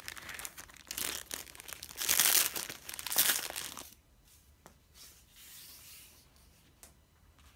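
Crinkling and rustling of iron-on mending tape being handled, loudest in the first four seconds and then dying down to a few light clicks.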